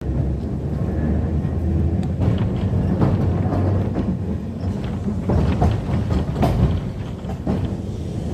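Heritage electric tram running along the track, a steady low rumble with occasional knocks and clicks from the wheels on the rails.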